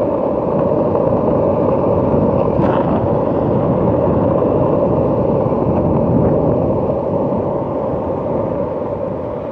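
Skateboard wheels rolling fast down a hill on rough asphalt: a loud, steady rumble that eases off near the end.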